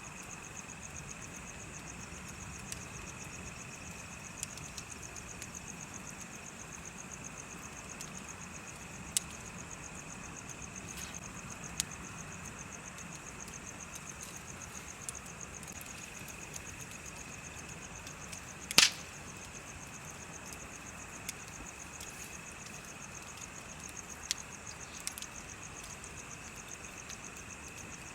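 Bonfire crackling with scattered sharp pops, the loudest about two-thirds of the way in. Beneath it insects chirp steadily: one continuous high trill and a higher, faster pulsing chirp.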